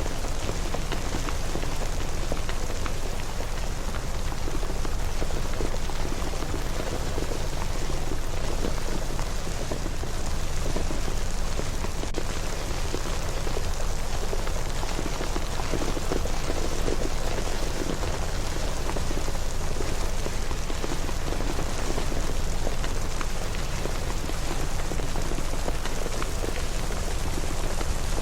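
Steady rain, a dense even patter of drops, with a constant low rumble underneath.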